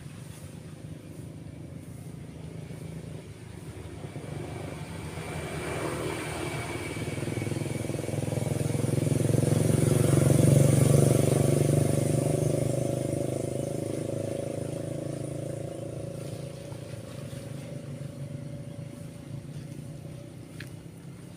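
A road vehicle passing by: its engine grows louder over several seconds, peaks about halfway through, then slowly fades away, over faint surf.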